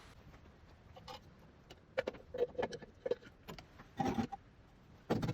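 Irregular metallic clinks and knocks from hand tools being handled, some with a short ringing tone, and a louder clatter near the end.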